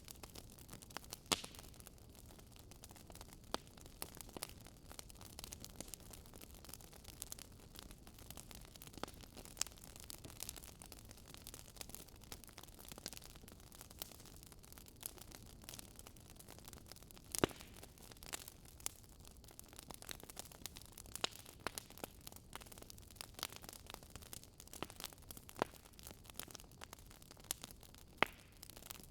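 Fireplace crackling: a steady low hiss of burning wood with irregular small pops and snaps, and a few sharper cracks standing out.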